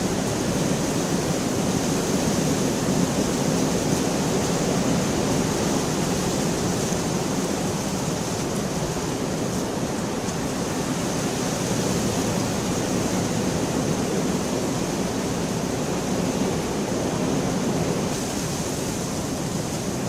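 Steady rain falling in an even, unbroken rush, with no thunderclap.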